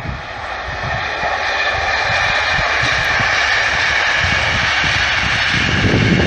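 Electric-locomotive-hauled regional passenger train approaching and passing along the line, growing steadily louder with a steady whine over its running noise. Gusts of wind buffet the microphone, more strongly near the end.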